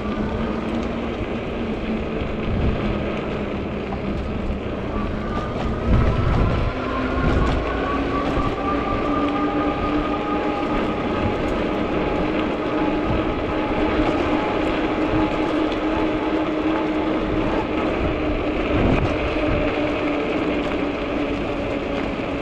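Electric hub motor of a fat-tire e-bike whining under way, its pitch rising about six seconds in as it speeds up and then holding steady, over wind noise on the microphone and the fat tires on a wet, slushy road. A low bump comes about six seconds in.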